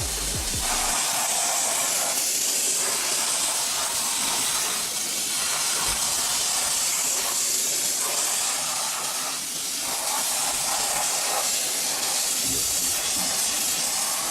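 High-pressure washer spray hissing steadily against the truck, its tone dipping briefly about every two seconds.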